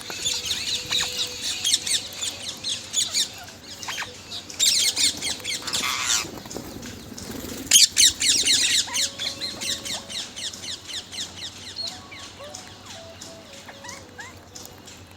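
Parrots chattering and squawking: many quick high chirps with louder squawking bursts about five and eight seconds in.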